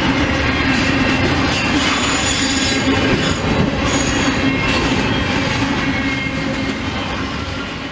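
Freight train cars rolling past on jointed track, with clickety-clack and high wheel squeal over a steady low hum; the sound fades toward the end as the train moves away.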